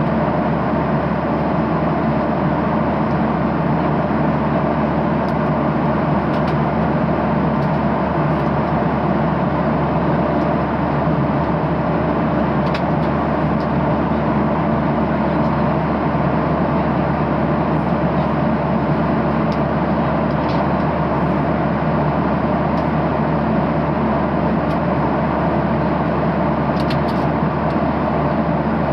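Steady cabin noise of a Boeing 737-800 in flight: an even rush of airflow and engine noise, with a few faint clicks.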